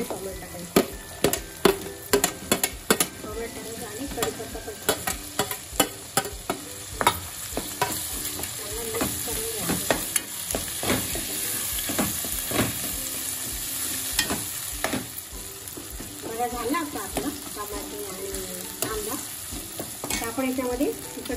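Onion and tomato frying in oil in a non-stick kadhai, stirred with a steel spatula: a steady sizzle with frequent sharp clacks of the spatula against the pan. The clacks thin out after about fifteen seconds, leaving mostly sizzle.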